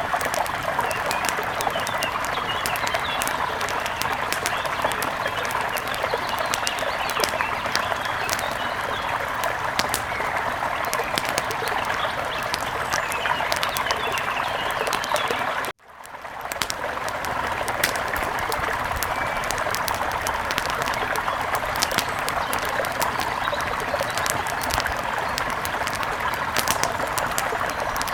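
A river flowing steadily: a constant rush of water with many small sharp splashes and a few bird calls. About halfway through, the sound cuts out abruptly and fades back in over a second or two.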